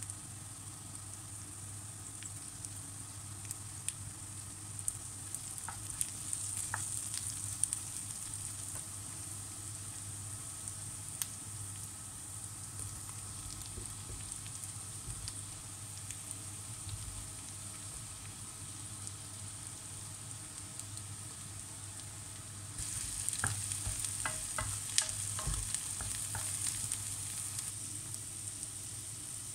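Diced onion, garlic and sliced mushrooms sizzling in hot vegetable oil in a frying pan: a steady hiss with scattered sharp crackles. About three-quarters of the way through it gets louder, with a quick run of crackles.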